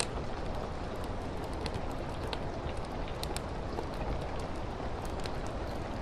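Steady rain, with scattered sharp pops and crackles from a wood fire burning in a fireplace.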